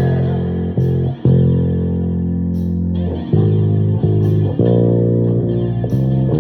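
Electric bass guitar playing long held notes in a rock song, changing note every second or so, with a distorted guitar tone in the mix.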